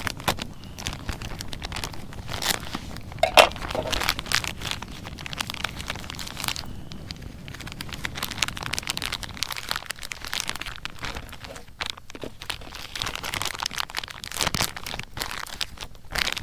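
Crinkling and rustling handling noise with many sharp clicks and taps throughout.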